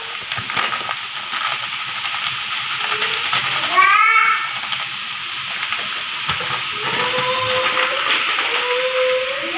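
Salted squid and squash stir-fry sizzling and hissing steadily in a wok on a gas flame. A short high cry that rises and falls in pitch cuts in about four seconds in.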